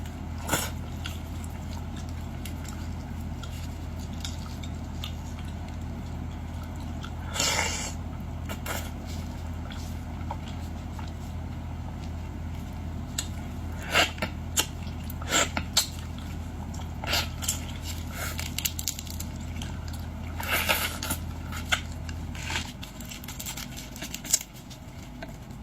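Boiled shrimp and lobster shells being cracked and peeled by hand, with irregular crackling and squishy clicks and a couple of longer crunching bursts. Under it runs a steady low hum that stops near the end.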